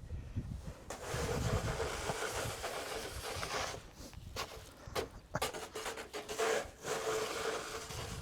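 Snow shovel scraping and pushing through snow in long strokes, with a few sharp knocks in the middle.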